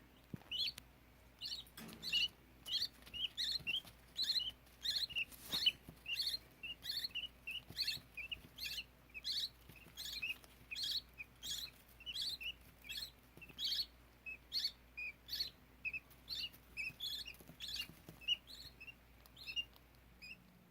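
Baby budgerigar chicks chirping: a steady run of short, high chirps, two to three a second.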